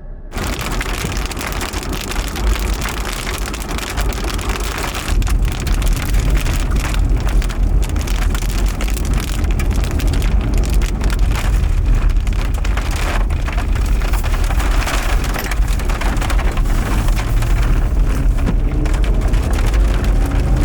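Heavy rain and gusting wind from a tornadic supercell, with wind buffeting the microphone. It starts abruptly and grows louder about five seconds in.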